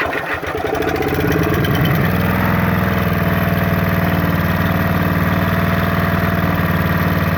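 Clarke Power CPB1200 generator's small engine picking up speed over the first two seconds, then running steadily at its set speed with the choke off. It runs smoothly, although the generator puts out no power.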